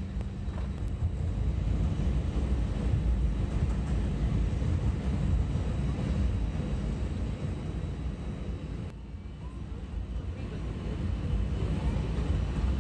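Steady rumble of an Airbus A320's jet engines and airframe heard from inside the cabin, dipping briefly about nine seconds in and rising again near the end.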